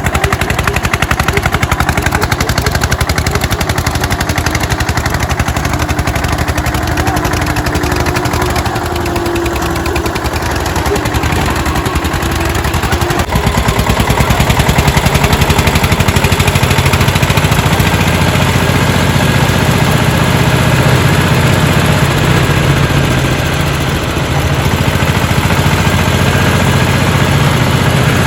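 Eicher 241 tractor diesel engines running hard under load in a tractor tug-of-war, a loud, fast chugging. The sound gets louder about halfway through and deepens in the last part.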